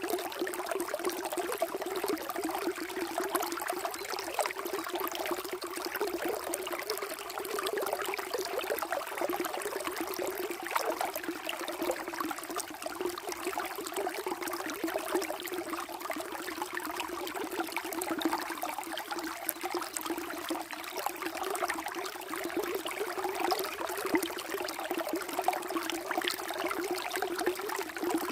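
Water running and trickling steadily, a small stream or channel flowing with a continuous babbling sound.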